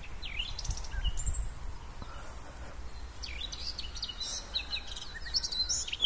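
Wild songbirds singing: short, high chirps and gliding whistled calls from several birds, coming more often in the second half.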